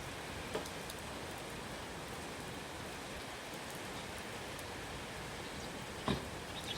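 Steady rain falling, with individual heavier drops hitting a surface: one about half a second in and a louder one near the end.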